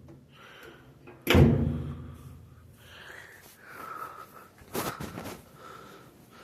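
A heavy thump about a second in, booming and dying away over a second, then a weaker pair of knocks near five seconds, such as a door or drawer being shut.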